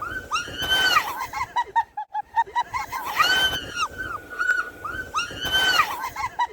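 A woman screaming in fright going down a playground slide: long high-pitched cries, broken by breathy gasps and a quick run of short shrieks in the middle.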